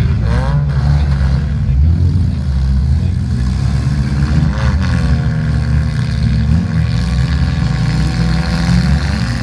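Several demolition derby cars' engines running together in a loud, steady low rumble, with engines revving up and down now and then, most clearly near the start and about five seconds in.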